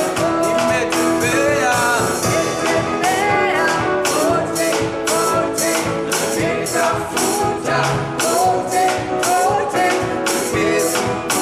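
Live gospel worship song: voices singing over instruments and a steady percussion beat of about two to three strokes a second.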